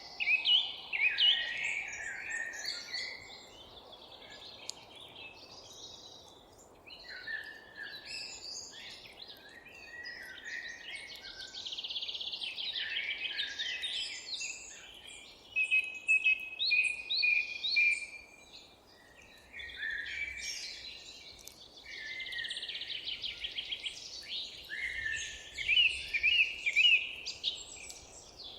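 Several songbirds singing at once, overlapping chirps, whistled phrases and rapid trills, over a faint steady low background noise.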